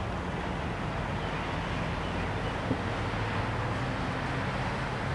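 Steady low rumble of a distant approaching train, with a faint low hum and light wind on the microphone.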